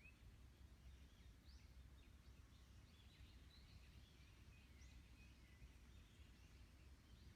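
Faint chirping of small birds, short up-and-down chirps scattered throughout, over a low, steady rumble of wind.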